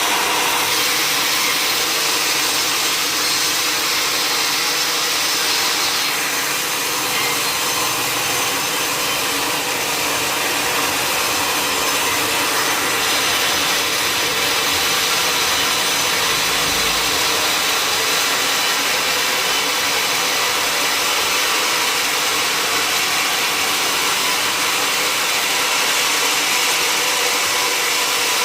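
Sawmill saw running steadily through wood, a dense, even noise with most of its energy in the upper range, the mill machinery running underneath.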